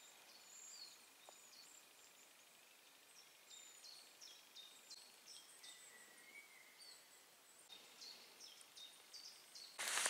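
Near silence with faint, high-pitched bird calls: short chirps and whistled notes, a few each second.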